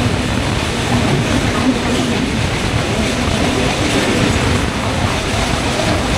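Broad-gauge passenger train running at speed, heard from on board at an open window: a loud, steady noise of wheels running on the rails.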